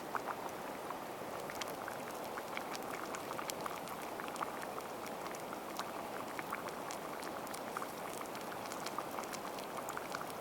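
Wood campfire crackling: a steady hiss with many small, irregular pops and snaps.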